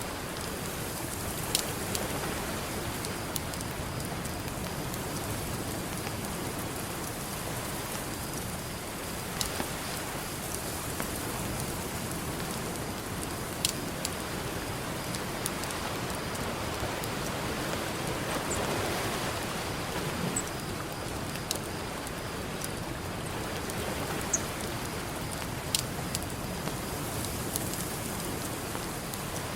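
Campfire crackling, with a few sharp pops scattered through, over a steady wash of ocean surf; a wave swells up and falls back about two-thirds of the way through.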